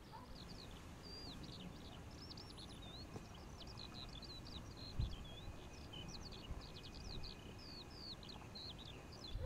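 Birds singing in open grassland: a continuous run of quick, varied high chirps and whistles over a low rumble, with one soft low thump about halfway through.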